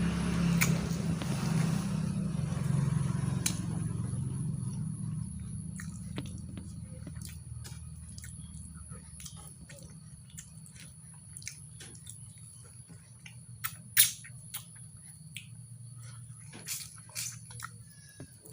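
Close-up eating sounds from a person eating mutton curry with rice: chewing with many short, wet mouth clicks and smacks, and one sharper click about 14 seconds in. A low hum fades away over the first several seconds.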